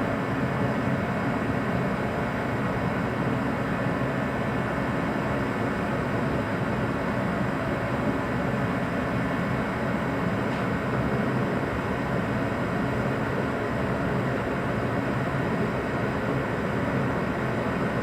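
Steady, unchanging mechanical drone.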